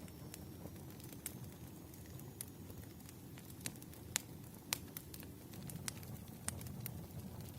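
Wood fire crackling, with a low steady rumble of the flames and scattered sharp pops and snaps from the burning logs, a few louder ones about halfway through.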